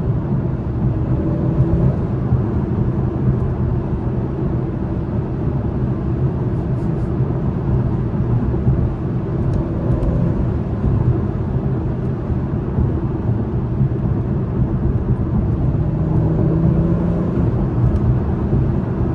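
Steady in-cabin drive noise of a 2021 Acura TLX Type S cruising: low road and tyre rumble with the turbocharged V6's hum underneath, its pitch drifting slightly.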